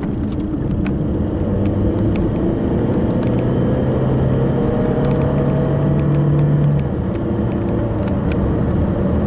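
Car engine and road noise heard from inside the cabin while driving, with a steady hum whose pitch climbs slowly for a few seconds and eases off about seven seconds in. Scattered light ticks sound through it.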